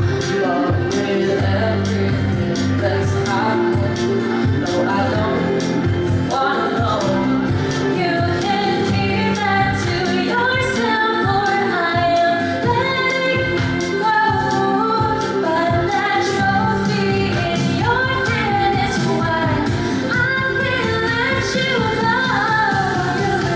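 Live pop song: a band with a steady drum beat behind a female voice singing a melody without clear words.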